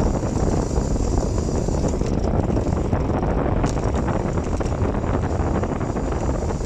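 Wind rushing over the microphone of a bicycle coasting fast down a steep road, a steady, heavy buffeting roar.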